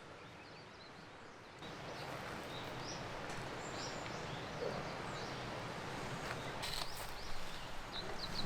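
A steady rushing outdoor noise that gets louder about a second and a half in, with short high chirps and a few light clicks over it.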